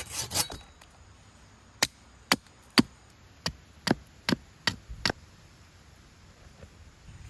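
A hand saw gives its last strokes through wood. About two seconds later come eight sharp strikes of a tool on wood, evenly paced at about two a second.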